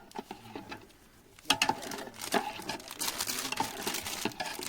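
Scattered light clicks and taps with rustling, pausing briefly about a second in, then busier in the second half.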